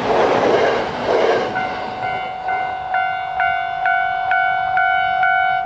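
A JR East 209 series electric train passes with wheel-on-rail running noise that dies away about a second and a half in. A Japanese level crossing's electronic warning bell is then left ringing, about two dings a second.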